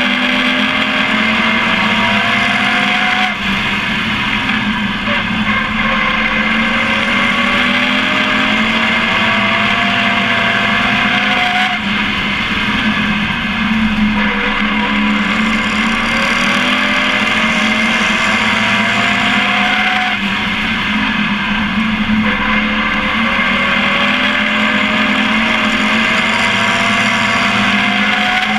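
Pro Truck race engine heard onboard at racing speed. Its pitch climbs steadily for a few seconds and then drops back, over and over, about every seven to eight seconds, as the truck accelerates down each straight and lifts for the turns.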